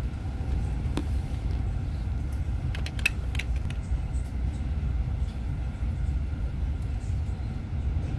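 Steady low rumble of a regional train running along the track, heard from inside the carriage, with a few short clicks and rattles about a second in and around three seconds in.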